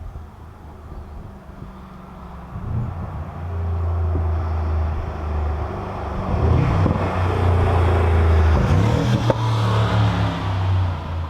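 Mercedes-AMG G63's twin-turbo V8 running through a valved sports exhaust with the flaps fitted, a deep steady note that grows louder a few seconds in. It is loudest in the second half, with a rushing hiss over the rumble, then eases near the end.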